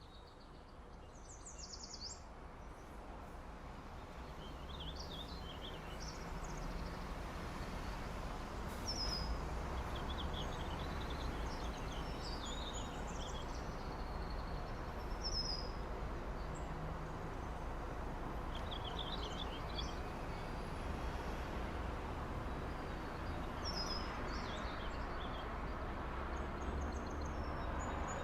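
Ambient soundscape of small birds chirping over a steady low city rumble. The rumble fades up over the first several seconds, then holds steady while scattered chirps come and go.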